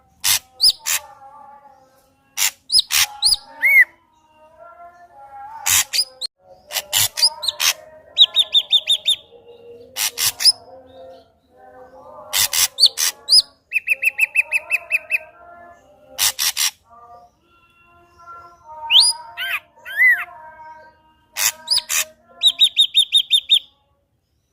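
Ashy drongo singing a loud, varied song: sharp clicks, quick even trills and short rising whistles, set among lower warbling phrases.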